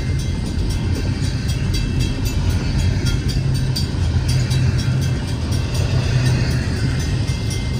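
Double-stack intermodal freight train passing at speed over a grade crossing: a steady low rumble of wheels on rail. Above it, the crossing bell rings at a rapid, even rhythm.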